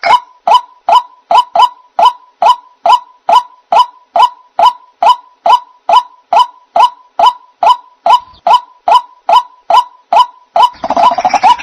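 White-breasted waterhen (ruak-ruak) calls used as a bird-trap lure: a monotonous run of short, sharp notes, about three a second, breaking into a denser chattering chorus about a second before the end.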